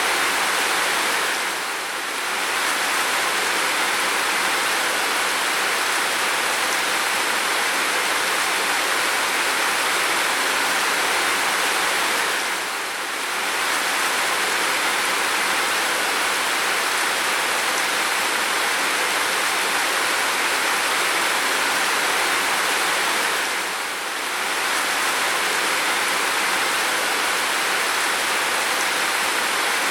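Heavy rain falling in a steady, dense hiss. The level briefly dips three times, about every eleven seconds.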